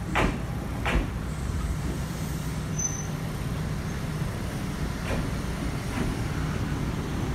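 Yoro Railway 600 series electric train pulling slowly into a platform over a steady low running hum. The wheels clack over a rail joint twice in quick succession near the start, then twice more faintly a few seconds later. A brief high squeal comes about three seconds in.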